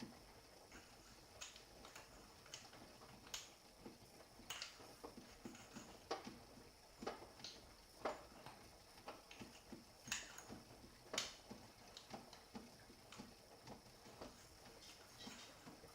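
Faint, irregular clicks and taps, a dog's claws on a hard floor as it moves about, over a faint steady high whine.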